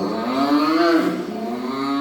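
A man's mouth imitation of a motorcycle engine revving: a buzzing vocal drone that rises in pitch, breaks off about a second in, then rises again.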